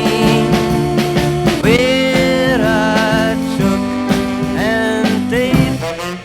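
A 1960s beat band playing a studio take: sustained chords over bass and drums, with a lead line that slides up into its notes twice.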